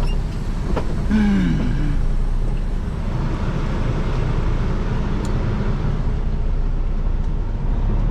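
Semi truck's diesel engine idling with a steady low rumble, with a brief wavering pitched sound about a second in.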